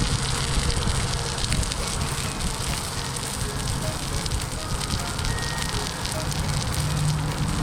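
Small wood fire crackling: a steady hiss with many small pops and snaps.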